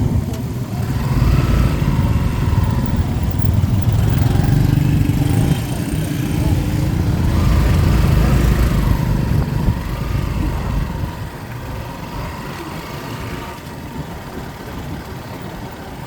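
Motor vehicle engines running, with rising and falling pitch as they rev or pass. The sound is loudest for the first ten seconds or so, then settles to a steadier, quieter drone.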